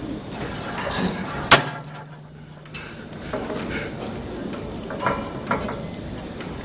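A single sharp clank of gym weights about a second and a half in, over background music with a steady beat.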